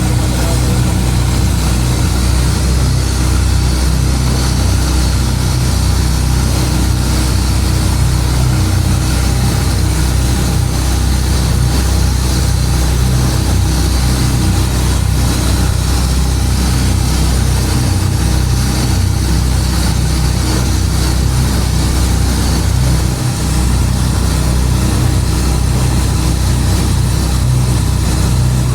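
Longtail boat's engine running steadily under way, a constant low drone that holds the same pitch throughout.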